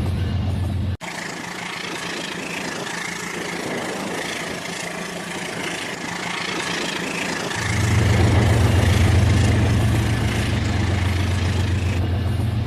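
Battery-powered Rail King toy train running on its plastic track, its small motor and wheels making a steady clattering hum. It cuts off abruptly about a second in and starts again with a higher, noisier rattle, and a deeper low hum returns about two-thirds of the way through.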